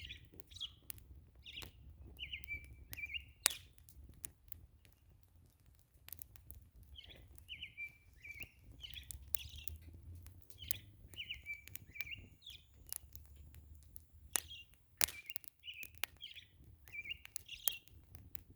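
A campfire crackling with irregular sharp pops, while a songbird sings short repeated phrases over it. The loudest pops come at about three and a half seconds and fifteen seconds in.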